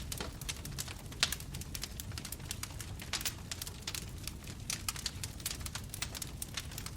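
Bonfire crackling: many irregular sharp pops and snaps from the burning wood over a low, steady rumble of the flames, with one louder pop about a second in.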